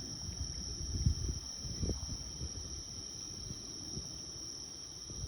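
Steady high-pitched chorus of night insects, with a few low dull thumps underneath, the loudest about a second in.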